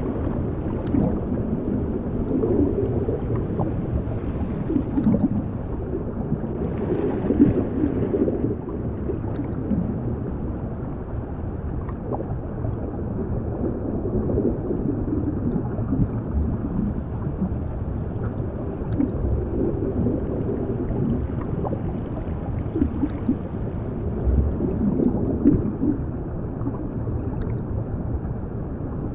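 Underwater ambience of bubbling water: a dull, low rumble with gurgling that swells and fades every few seconds, and a few faint clicks.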